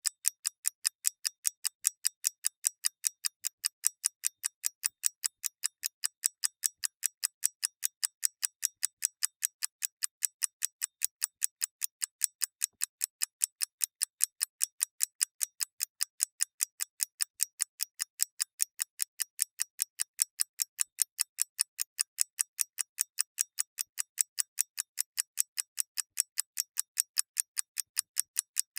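Mechanical clockwork ticking: crisp, bright ticks in a fast, perfectly even rhythm, with a faint alternation between louder and softer beats.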